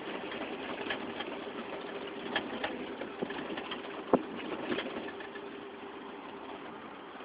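Scania G124 truck's diesel engine running steadily, heard from inside the cab as a constant hum, with scattered light clicks and rattles and one sharper click about four seconds in.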